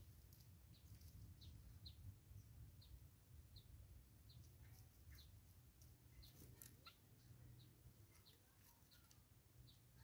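Faint chirping of wild birds: short high chips repeating roughly every half second to second, with a few other brief calls in the middle, over a low steady rumble.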